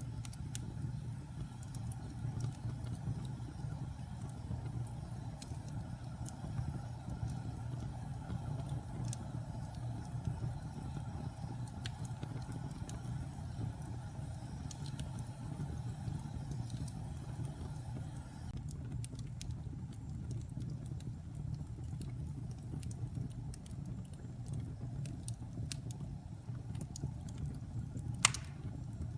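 Wood fire burning in a fireplace: a steady low rumble with scattered small crackles, and one loud sharp pop near the end.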